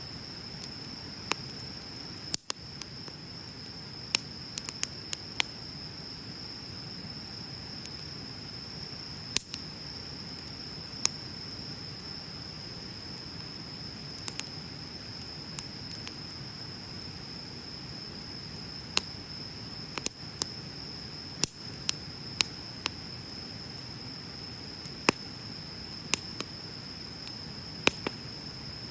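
Wood bonfire crackling: irregular sharp pops and snaps, a few seconds apart, over a low steady burning hiss. A steady high-pitched insect trill runs behind it.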